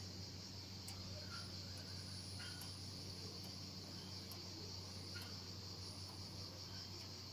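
A steady, high insect chorus with a low hum underneath, and short faint squeaks every second or two from a creaking swing.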